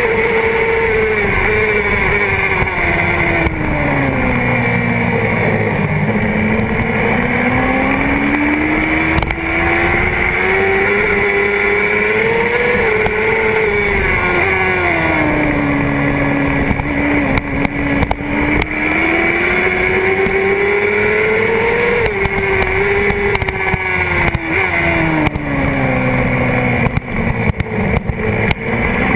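Honda CBR600RR's inline-four engine at racing speed, recorded from the tank. Its note sweeps down and back up several times as the bike slows for corners and accelerates out of them.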